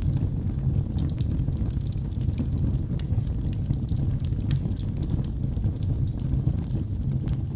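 Wood fire burning in a fireplace: a steady low rumble of flames with scattered small, sharp crackles and pops of the burning wood.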